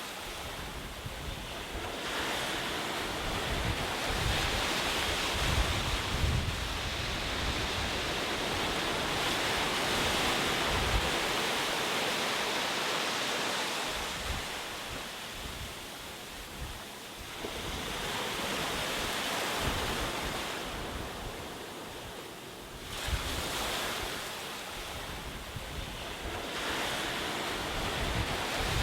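Ocean waves breaking and washing on a shore, the surf swelling and ebbing in slow surges several seconds apart, with a low rumble under the wash.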